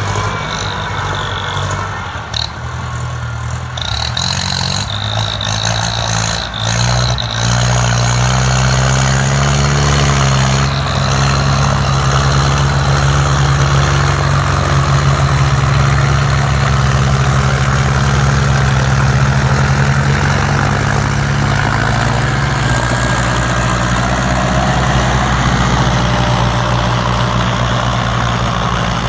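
Ford farm tractor's diesel engine running. It revs up about eight to ten seconds in, holds steady, then eases off slightly near the end.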